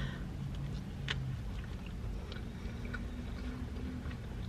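A person chewing a big bite of burger with her mouth closed: soft, wet mouth clicks scattered over a low background hum.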